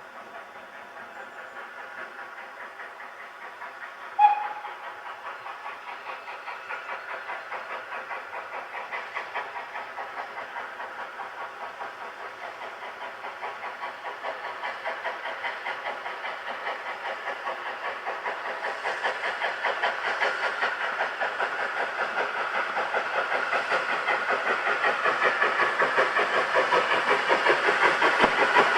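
SECR O1 class 0-6-0 steam locomotive No. 65 working a train, its exhaust beating in a steady rhythm of puffs and growing louder as it approaches. A brief whistle toot sounds about four seconds in.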